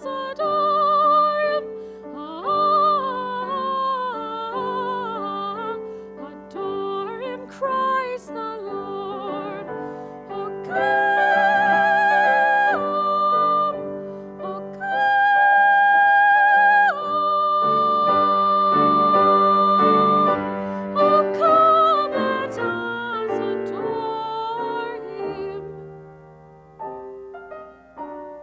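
Solo female voice singing with strong vibrato, operatic in style, over piano accompaniment; two long high notes are held in the middle, and the music softens near the end.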